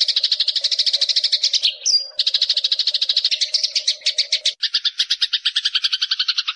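Eurasian tree sparrow chattering in a fast, unbroken string of chirps, with a short gap and a brief whistled note near two seconds in. About four and a half seconds in the chatter changes to a lower, more spaced run and then cuts off abruptly.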